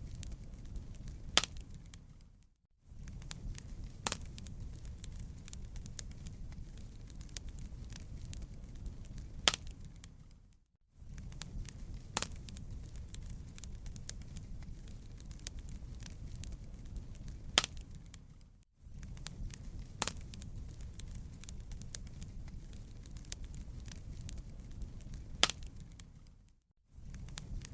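Fireplace fire crackling, with scattered sharp pops over a low, steady rumble. The sound fades out briefly and comes back about every eight seconds, as a short recording looping.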